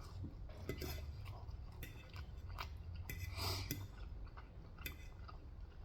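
A person chewing mouthfuls of Korean fried chicken close to the microphone: soft chewing with scattered small clicks.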